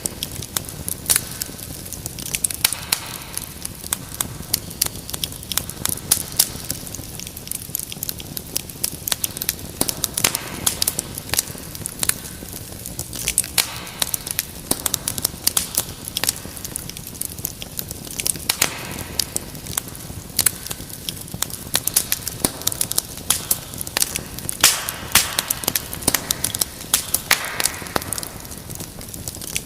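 Wood fire crackling, with frequent irregular sharp pops and snaps over a low steady hiss.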